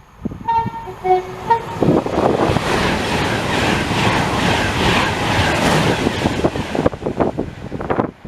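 A train's two-tone horn gives three short notes, high, low, high, then a train rushes through at speed for about five seconds, the noise stopping abruptly as it clears.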